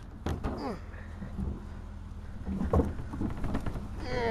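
Eagle Premier engine idling steadily, with handling noises over it: short squeaky scrapes near the start and near the end, and a knock about two-thirds in.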